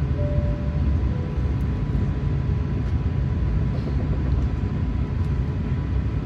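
Steady low rumble of an Airbus A380-800 heard from inside the passenger cabin, with a faint steady high tone above it.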